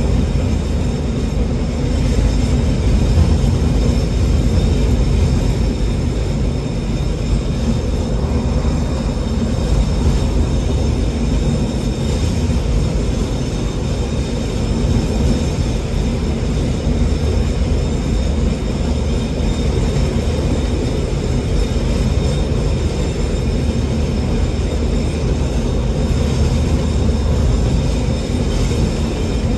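Alishan Forest Railway narrow-gauge diesel train running steadily, its engine drone and wheel-on-rail noise even throughout.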